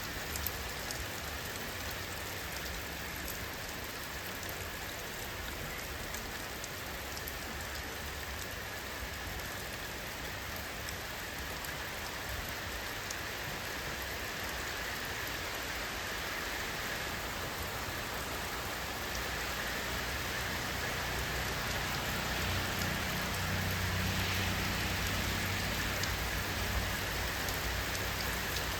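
Steady rainfall, a dense even hiss with separate drops ticking through it. A low rumble swells slightly over the last third.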